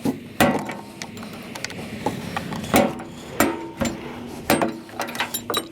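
Irregular metal knocks and clanks, about six spread over a few seconds, some ringing briefly, as a hand tool works at a stuck part on a piece of scrap metal.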